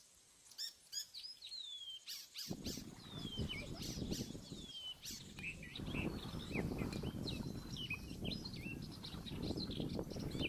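Birds chirping, a series of short descending whistles, over a low rough background noise that comes in about two and a half seconds in.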